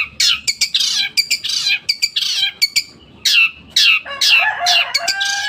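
Long-tailed shrike (cendet) singing hard: a rapid string of harsh squawking notes that fall in pitch, about three to four a second, mixed with fast clicking rattles. About four seconds in a held, slightly bending whistle joins the calls.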